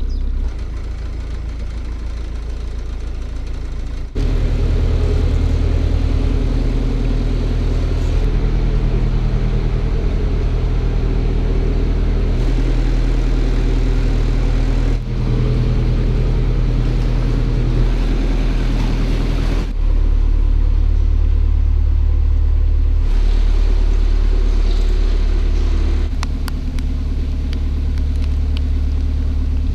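Narrowboat's diesel engine running steadily under way, a low, even drone that shifts suddenly in pitch and loudness a few times.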